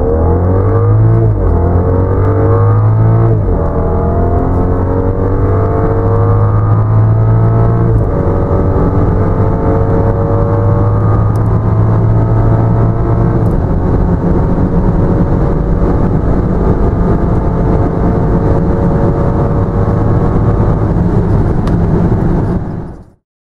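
BMW 535i's 3.0-litre turbocharged straight-six at full-throttle acceleration, heard from inside the cabin. The engine note climbs in pitch through each gear, with quick automatic upshifts about one, three, eight and thirteen seconds in. The sound cuts off suddenly near the end.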